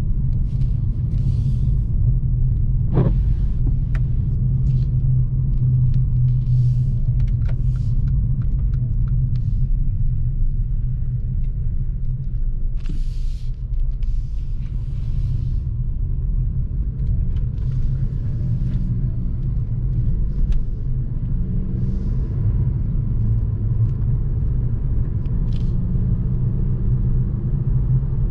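Steady low rumble of a vehicle in motion, with scattered light clicks and knocks.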